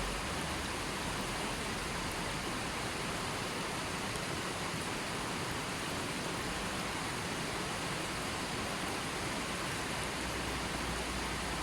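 Steady, even rush of running water with no separate events.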